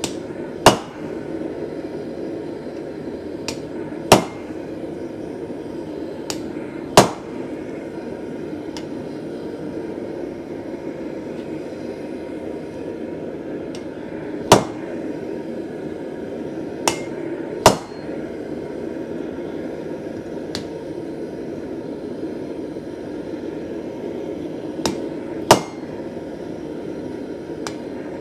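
Blacksmith's hammer striking steel, single sharp blows several seconds apart, some preceded by a lighter tap, over a steady low hum.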